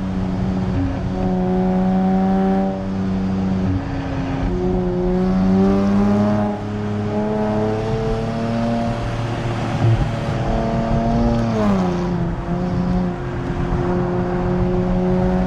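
Nissan Z Nismo's twin-turbo 3.0-litre V6 through a Nismo track exhaust, running steadily under way. Its note dips about four seconds in, climbs gradually for several seconds as the engine pulls, then falls back about twelve seconds in.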